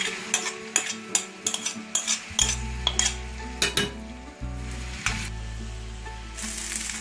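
A metal spoon scraping and tapping grated papaya off a plate into a pan of hot ghee, a quick run of clicks, with the papaya sizzling as it fries. The sizzle grows louder near the end as the papaya is stirred, and a low hum comes in about two seconds in.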